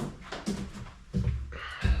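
A few separate clunks and knocks of tools and engine parts being handled, the loudest about a second in and just before the end.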